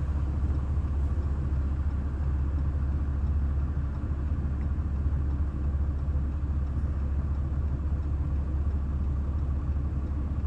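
Steady low mechanical rumble of an engine or motor running at an even speed, unchanging throughout.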